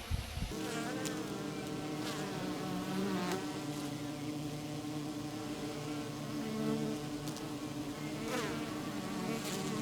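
Honey bees buzzing steadily around the hive, with single bees flying close past every few seconds, their hum swelling and bending in pitch as they pass. A low rumble cuts off about half a second in.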